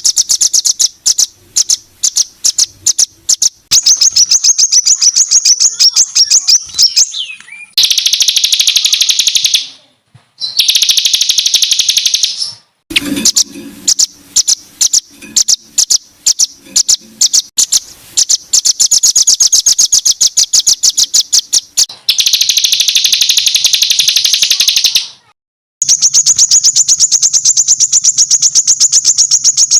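Songbird singing loud, harsh, rapid-fire notes in the 'tembakan kasar' style used to train competition birds: dense runs of high-pitched chips and trills, each run stopping abruptly before the next begins.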